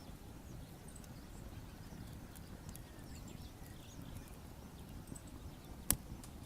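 Wood fire crackling, with scattered small pops over a low rumble and one sharp, loud pop near the end.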